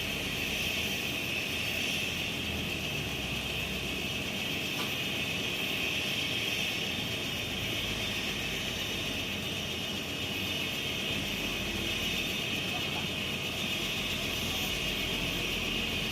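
Bell 505 Jet Ranger X helicopter's turboshaft engine running steadily: a constant high turbine whine over a low rumble.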